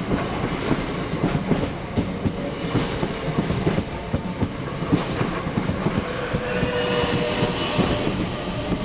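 Electric multiple-unit train moving along the platform, its wheels clicking rapidly over the rail joints. A faint steady whine comes in about two-thirds of the way through.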